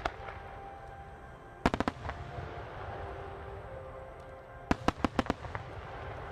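Aerial firework shells of a starmine going off in three quick volleys of sharp bangs: a pair at the start, a rapid run of four about two seconds in, and a longer run of five or six about five seconds in, over a low rumble, with music playing faintly underneath.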